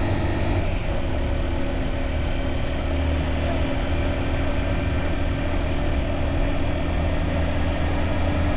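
Motorbike engine running at a steady speed while riding, under a steady low rumble.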